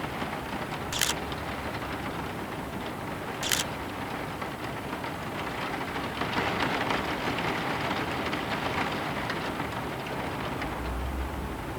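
Steady rain falling, an even hiss, with two sharp ticks about one and three and a half seconds in.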